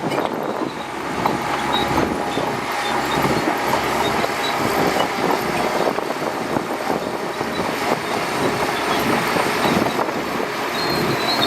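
Shantui DH17C2 bulldozer's diesel engine running steadily under load, with many short clanks and rattles throughout.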